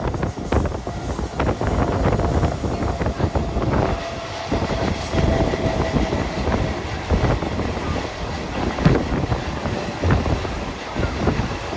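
Mumbai suburban local train (EMU) running along the track: a continuous rumble with wheels clicking and clattering over rail joints. A thin steady whine sounds for a few seconds in the middle.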